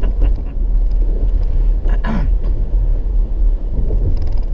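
A car driving along, heard from inside: a steady low rumble of engine and road noise, with a brief higher sound about two seconds in.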